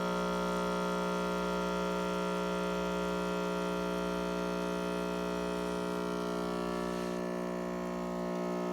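Chefman espresso machine's 15-bar pump running steadily during a double latte brew: an even, buzzing hum as it draws water from the reservoir and pushes it through the coffee.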